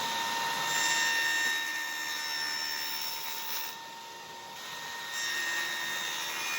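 Electric power tool running with a steady whine while cutting grooves into a piece of cedar. The loudness rises and falls as it cuts, dipping about four seconds in.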